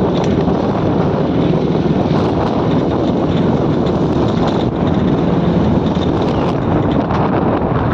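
Motorcycle running steadily along a rough road, with wind buffeting the microphone.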